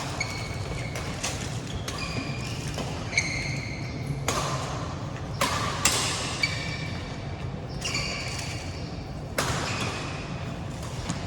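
Badminton rally: racket strings smacking a shuttlecock with sharp cracks every second or so, mixed with short high squeaks of court shoes on the floor, over a steady low hum.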